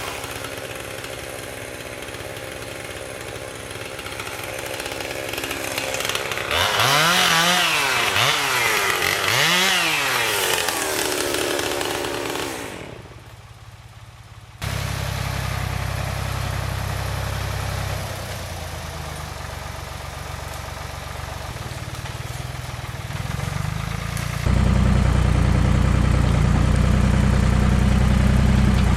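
Chainsaw running and revving up and down several times while limbing a felled tree, then dropping off. About halfway through it gives way abruptly to a farm tractor engine running steadily, which gets louder in the last few seconds as it works.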